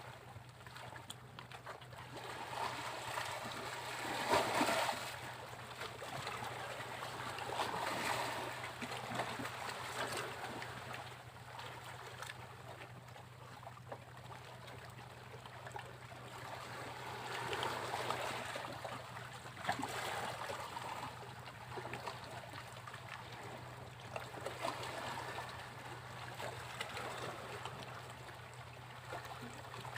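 Sea waves breaking on a beach: surf swells up and washes back several times, the loudest wave breaking about four seconds in, over a steady low hum.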